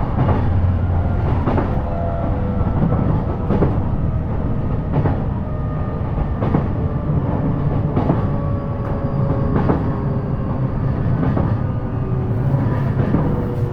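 Running sound heard inside a JR East E233-series electric multiple unit: a steady rumble of wheels on rail, with a sharp clack from the rail joints about every second and a half. A faint motor whine sinks slightly in pitch near the end, as the train slows on its approach to its final stop.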